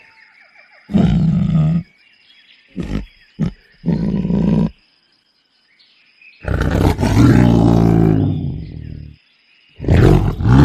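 A large wild animal roaring in a series of separate calls: a short roar about a second in, a few brief grunts around three to four seconds, a long roar lasting over two seconds from about six and a half seconds, and another starting near the end. A faint steady high whine runs underneath.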